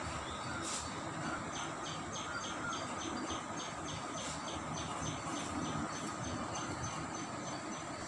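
A bird calling a fast, even series of short high notes, about four a second, starting about a second and a half in, over a steady rumble of distant road traffic.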